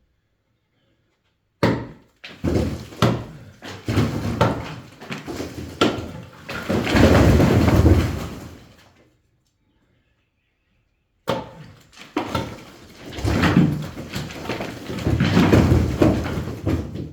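Bricks being knocked out of a wall: a run of sharp knocks and impacts, each run building to a longer crash of falling bricks and rubble. It comes in two bursts with a gap between.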